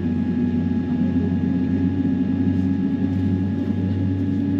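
Steady drone inside a Boeing 787-9 cabin before pushback: an even low hum with faint steady whining tones above it.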